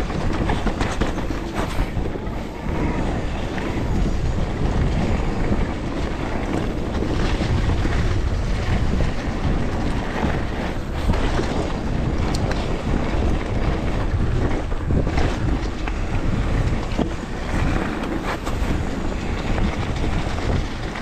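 Wind buffeting the microphone of a camera on a moving mountain bike, with a steady low rumble of tyres on the dirt trail and scattered knocks and rattles over bumps.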